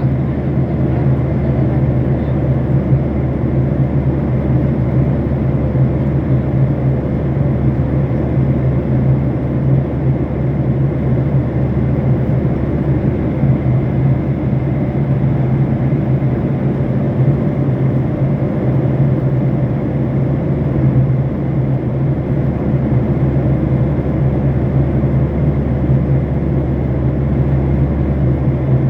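Steady drone of a passenger plane's cabin in flight, engine and airflow noise with a strong low hum.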